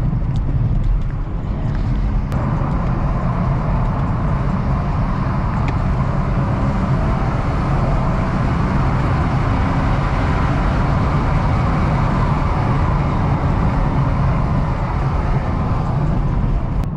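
BMW X4 xDrive35i's turbocharged inline-six pulling hard under acceleration, heard from inside the cabin and mixed with road and tyre noise. The engine sound grows louder about two seconds in.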